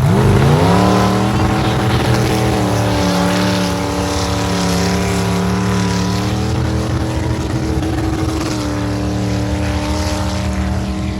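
A mud-bogging truck's engine revs up hard in the first second, then is held at high revs as a loud, steady drone, wavering slightly in pitch.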